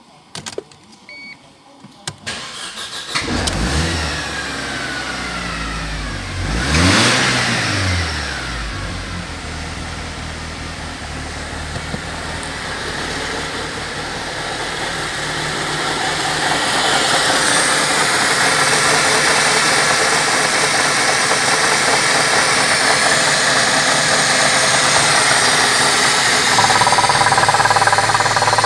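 Mercedes-Benz M271 1.8-litre four-cylinder petrol engine from a W203 C-Class starting about three seconds in and being revved once around seven seconds. It then idles steadily, its sound growing gradually louder.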